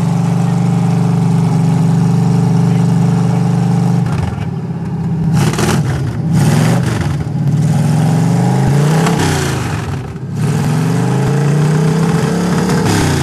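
1978 Jeep CJ5's AMC 304 V8 on header exhaust idling steadily while cold, then revved up and down several times from about four seconds in.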